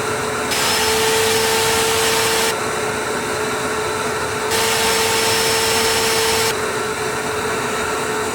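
DeWalt DXV20S Stealthsonic wet/dry shop vacuum running with a steady whine. It twice gets louder and hissier for about two seconds, about half a second in and again about four and a half seconds in.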